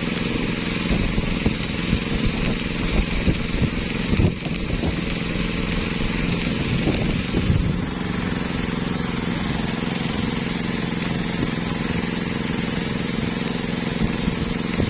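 Electric arc welding on a torn excavator bucket: a steady arc crackle and hiss that stops about eight seconds in. Underneath, an engine runs steadily throughout.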